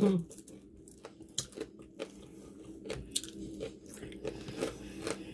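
Close-up sounds of a person biting and chewing crispy fried pork fatback and hog jowl: irregular crunches and mouth clicks.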